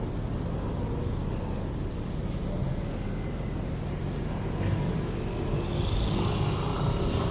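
Urban outdoor ambience dominated by steady road-traffic rumble, growing a little louder in the last couple of seconds.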